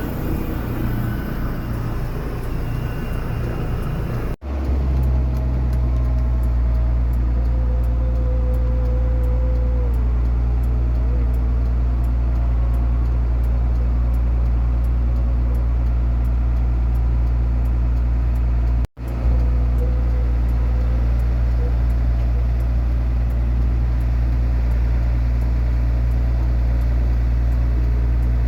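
A steady low engine drone, broken twice by short cut-outs in the recording, about four seconds in and again about nineteen seconds in.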